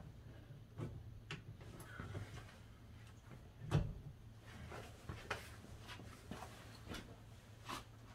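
Scattered small clicks and taps of metal bolts and latch parts being handled and fitted inside a car door, with one louder knock about four seconds in.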